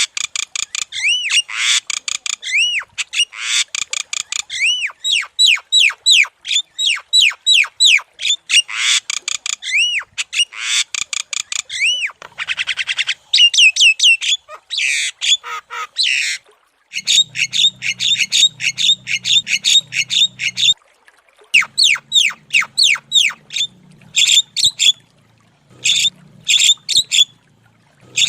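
Javan myna (jalak kebo) singing energetically: a rapid, loud run of squeaky, arching whistled notes, several a second. Near the middle the song breaks into shorter bursts with brief pauses.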